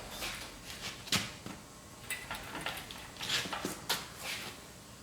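Scattered short metal clanks and knocks as an engine hanging from a hoist is shifted and lowered into a truck frame.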